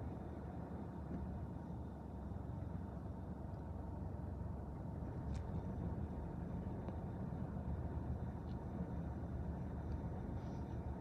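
Train passing: a steady low rumble of its rolling wheels, with a few faint high clicks around the middle.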